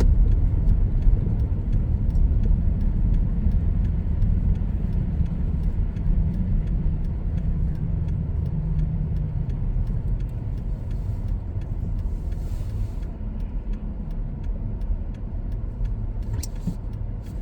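Car driving at steady speed: a constant low rumble of engine and road noise, heard from inside the cabin.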